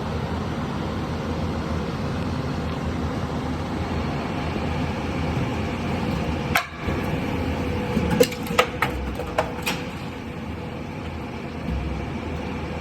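Steady rumbling background noise, with one sharp knock partway through and then a quick run of four or five sharp knocks and clicks.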